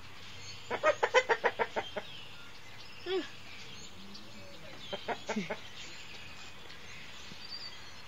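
Chicken clucking: a quick run of about eight clucks about a second in, a single call near three seconds, and another short burst of clucks around five seconds.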